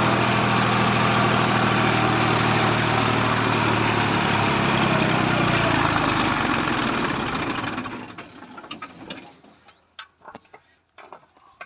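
Tractor engine running steadily, then dying away about eight seconds in, leaving faint scattered knocks and rubbing.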